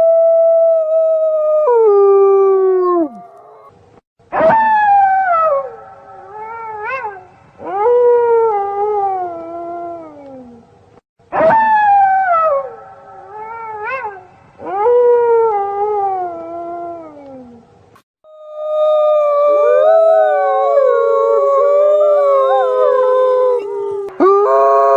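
A pack of wolves howling: long, drawn-out howls that rise quickly and then slide slowly down in pitch, with two or more voices often overlapping. The howl group that starts about four seconds in is repeated exactly about seven seconds later. Near the end several wolves hold steady overlapping howls together in a chorus.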